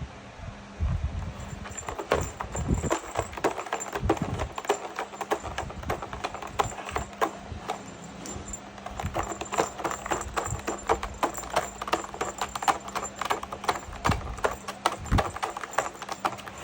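A cat playing with a toy: rapid, irregular clicking and clattering that starts about a second in, with a few low thumps.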